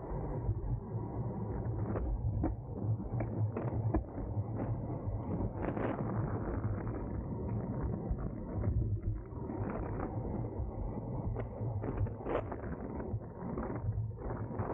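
Wind and road noise on a bicycle-mounted camera while riding at race speed, a steady muffled rush with many short sharp clicks and knocks scattered through it.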